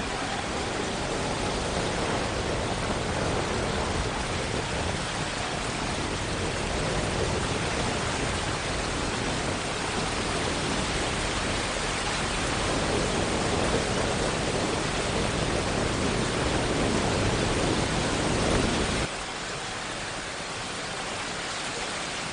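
Steady rushing noise of water, swelling a little in the middle and then dropping abruptly to a quieter hiss near the end.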